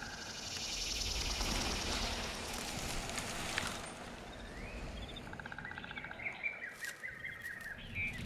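Wild birds chirping and calling over a steady background hiss, with a run of quick trilled notes and short rising chirps from about five to seven seconds in.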